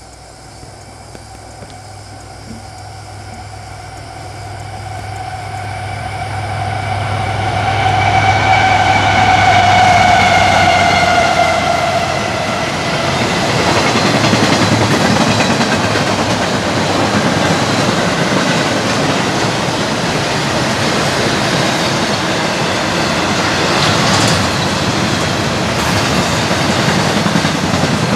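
CSX intermodal freight train passing: the diesel locomotives grow louder as they approach and drop in pitch as they go by about ten seconds in, then the double-stack container cars roll past with a steady rush of wheel and rail noise.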